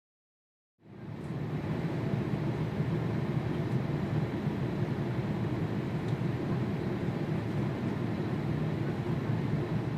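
Jet airliner engines heard as a steady low rumble, coming in about a second in out of silence and holding level.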